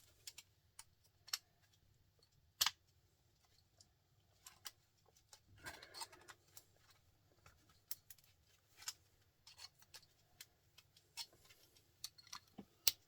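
Metal tools working on a small printer motor's steel and copper parts: scattered sharp metal clicks and taps, the loudest one a few seconds in, with a short scraping stretch about six seconds in.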